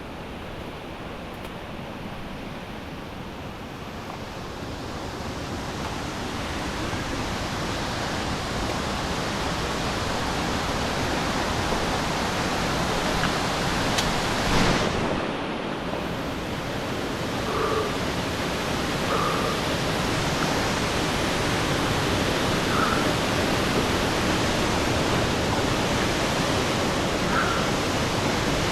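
Steady rush of river water that grows louder over the first half, with a single knock about halfway through.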